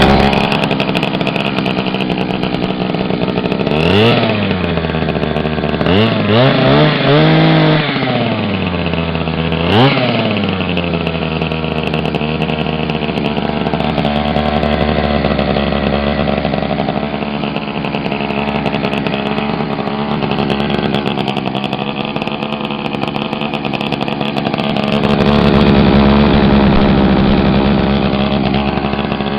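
Small two-stroke engine, thought to be off a leaf blower, running on a makeshift fuel tank. It is revved up and let drop back about four seconds in, several quick times around six to eight seconds in, and again near ten seconds, then runs steadily.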